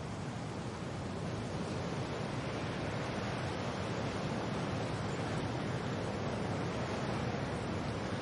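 Steady wind and rain: an even rushing noise with no distinct drops or gusts, swelling slightly over the first couple of seconds.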